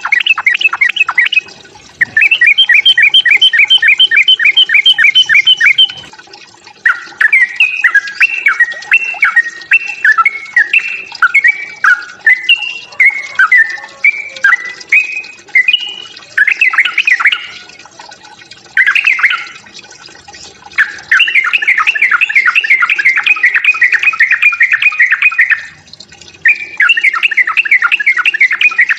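Yellow-vented bulbul (trucuk) singing its aggressive fighting song: long runs of rapid, bubbling repeated notes, broken by short pauses, with a more varied warbling stretch in the middle.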